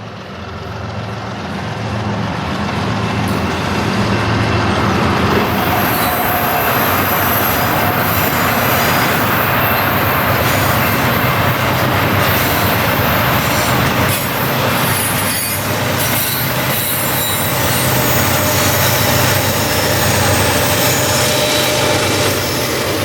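BNSF intermodal freight train rolling past on a curve: a steady, loud rumble of wheels on rail with thin, high wheel squeal coming and going.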